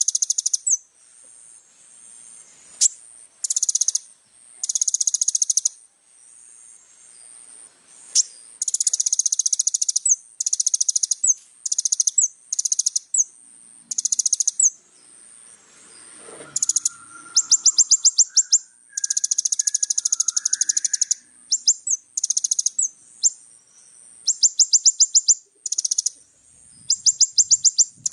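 Kolibri ninja sunbird singing: rapid, high-pitched buzzing trills and chattering bursts, repeated over and over with short pauses. A faint steady high tone runs underneath.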